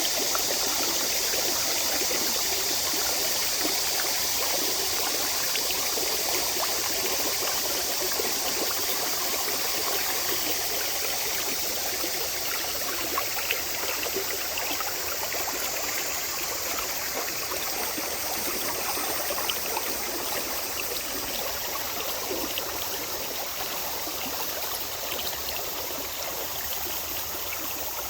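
Mountain valley stream flowing over rocks: a steady rushing of water with small splashes and trickles scattered through it.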